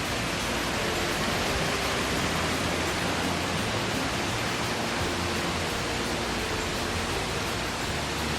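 Waterfall rushing steadily: a continuous, even wash of falling water with no breaks.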